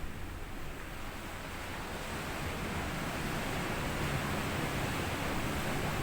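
Sea waves washing onto a sandy beach, the rush of surf swelling gradually from about two seconds in.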